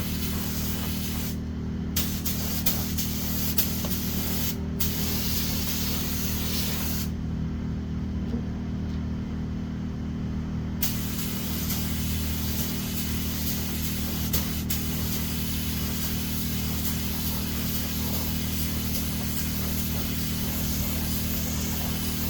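Paint spray gun hissing as it sprays car body panels. The hiss stops briefly twice in the first five seconds and for a few seconds in the middle as the trigger is released, over a steady low hum.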